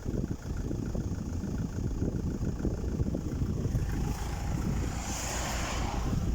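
BMW 320d four-cylinder diesel engine running at idle, a steady low rumble. A hiss rises over it about four seconds in and fades near the end.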